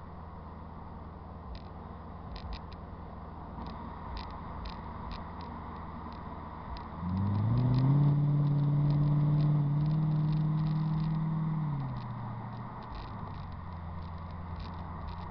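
Mercedes-Benz E55 AMG (W211) supercharged V8 and exhaust running at a steady low drone, then about seven seconds in the note climbs and gets much louder under acceleration. It holds for about four seconds, then drops back to a cruise.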